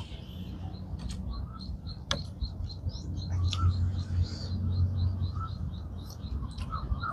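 A bird chirping in a quick, even series of short high notes, about five a second, over a low rumble, with a couple of sharp clicks.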